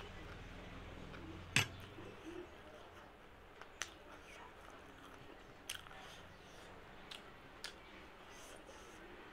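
A person eating with a fork: quiet chewing of a crunchy puffed-rice snack mix, broken by about five sharp clicks and crunches, the loudest about a second and a half in.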